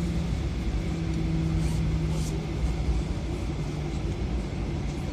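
Cabin noise aboard an Airbus A320 taxiing after landing: a steady low rumble with an even engine hum under it.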